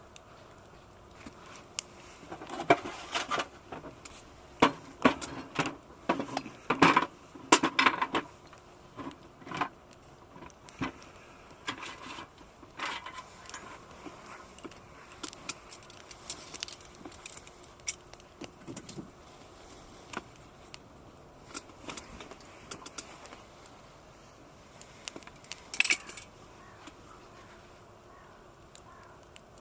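Small hard items, likely metal camping gear, clinking and rattling as they are handled. A quick cluster of knocks and jingles comes over the first several seconds, then scattered taps, with one more sharp clink near the end.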